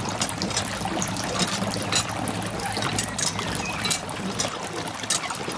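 Thin stream of water pouring from a miniature hand pump's spout into a shallow plastic pond, trickling and splashing steadily with small drips and ticks.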